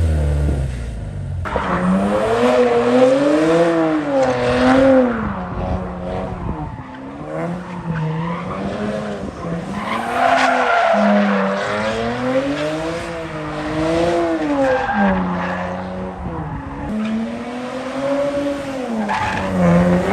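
A car engine revving up and down over and over, its pitch swinging about once every two seconds, with tyres squealing, as in a burnout or donuts.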